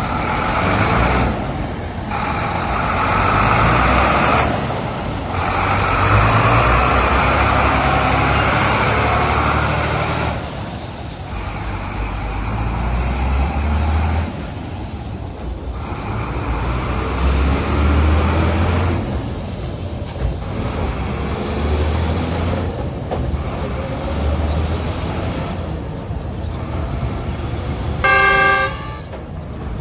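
Heavy trucks running, a loud mechanical engine noise that changes abruptly every few seconds. Near the end a vehicle horn sounds briefly.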